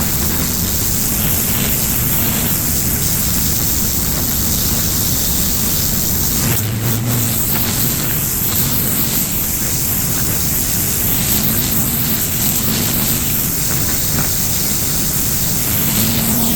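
Pressure washer running steadily, its high-pressure water spray hissing over a low engine drone.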